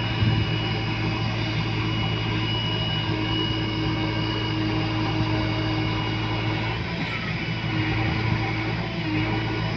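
Heavy diesel engine running steadily at an even pitch, with a thin high whine above it that fades out about seven seconds in.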